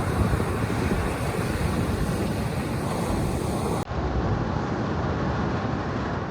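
Steady rushing ambience of wind and surf with a heavy low rumble. About four seconds in it cuts abruptly to a duller version of the same noise, which begins to fade out at the end.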